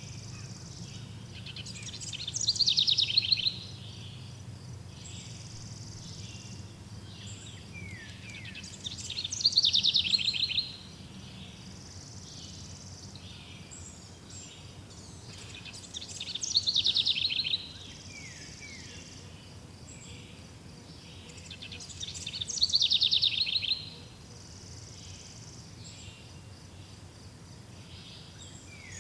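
A songbird singing a loud, rapid trilled phrase four times, about every six to seven seconds, each phrase falling in pitch and lasting under two seconds, over a steady chorus of insects.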